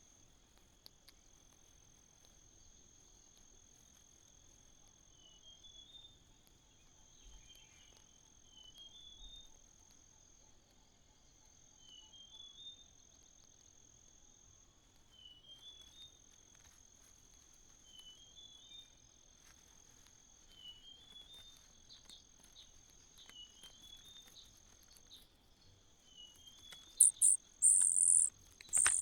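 Steady high-pitched insect trill, typical of crickets, with a short rising run of three or four chirps recurring every two to three seconds. Near the end come several loud, very high, squeaky calls.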